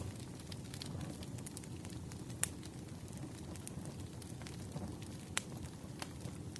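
Wood fire crackling: a steady low rush of burning logs with scattered sharp pops and snaps, two of them louder, about two and a half seconds in and again a little after five seconds.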